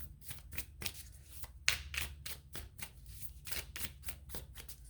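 A deck of animal oracle cards being shuffled by hand, a fast, uneven run of sharp card flicks and taps. The loudest flick comes a little under two seconds in.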